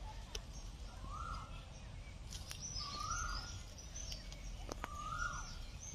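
A bird repeats the same short call three times, about two seconds apart, with fainter high chirps from other birds, over a low steady outdoor background.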